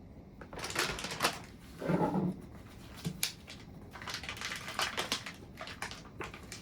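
Plastic food packaging rustling and crinkling in short irregular bursts, with light clicks, and a louder, lower-pitched burst about two seconds in.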